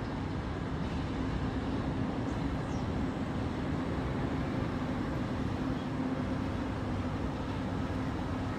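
Heavy machinery engine running steadily, an even rumble with a constant low hum.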